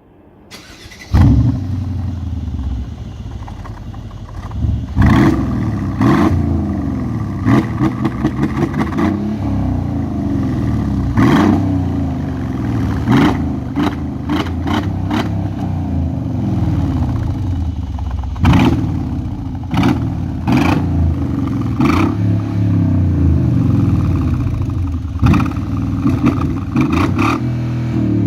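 Mercedes-Benz CL500 (W216) V8 starting about a second in, then idling with repeated short throttle blips heard through the exhaust, including a quick run of rapid blips partway through.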